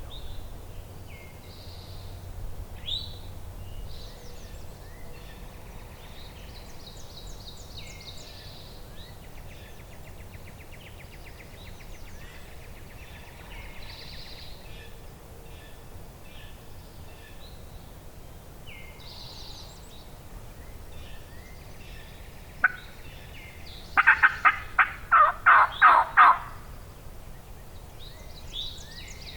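A wild turkey gobbler gobbles once, a loud, rapid rattle of about eight notes lasting about two seconds, near the end. Songbirds chirp and sing throughout, and a single sharp short sound comes just before the gobble.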